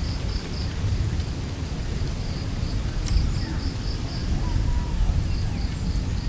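Strong wind buffeting the microphone in a steady low rumble, with an insect chirping high and faint in short runs of quick pulses.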